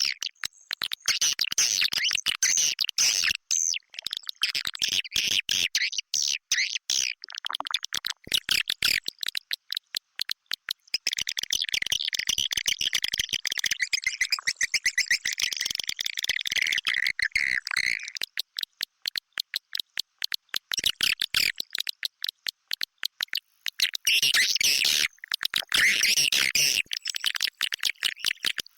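Recorded edible-nest swiftlet calls used as a lure: rapid, dense twittering and chirping in overlapping waves, with sharp clicking. The chirping thins to mostly clicks for a few seconds past the middle, then swells again near the end.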